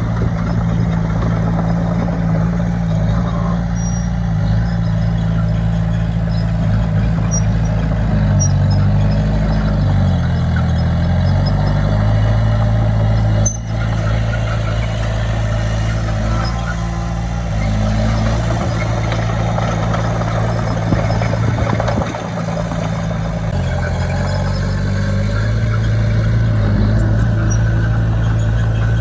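Heavy diesel engine of a construction machine running steadily under load, its pitch rising and falling a few times as the revs change.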